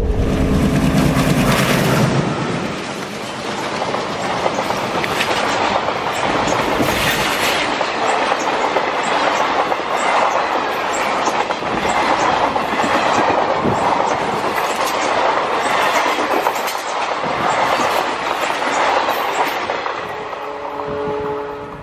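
Passenger train coaches rolling past, wheels clattering over the rail joints in a steady run of clicks, fading near the end.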